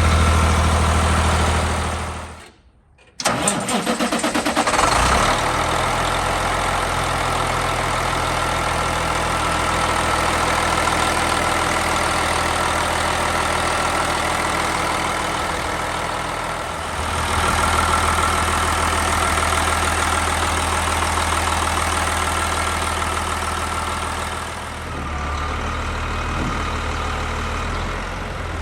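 Cummins ISM inline-six diesel engine running, then cut off. About three seconds in the starter cranks and the engine fires and settles into a steady idle.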